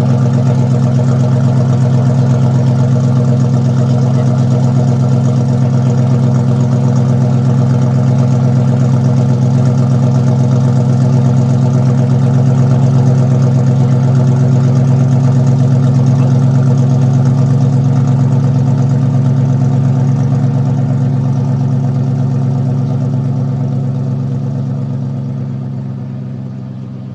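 BMW E39 535i's 3.5-litre V8 idling steadily in its warm-up after a cold start, growing fainter over the last few seconds.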